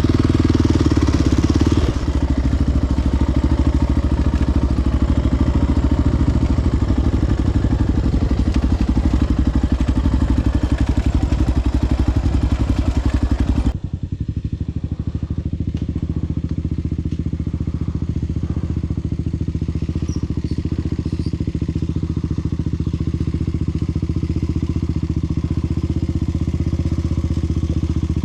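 Single-cylinder four-stroke sport-ATV engine running steadily under way on a trail. About halfway through, the sound changes abruptly and loses its hiss, then the engine carries on at a steady pace.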